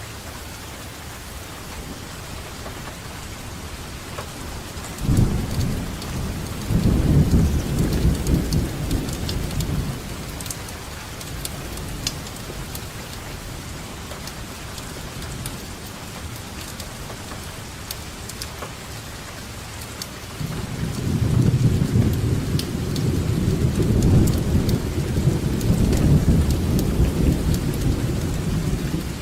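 Steady rainfall with individual drops ticking, and rolling thunder: a sudden rumble about five seconds in that carries on for several seconds, and a second long rumble building up over the last third.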